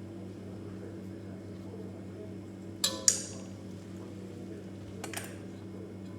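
Two sharp metallic clinks about three seconds in and a fainter pair about five seconds in, over a steady low hum.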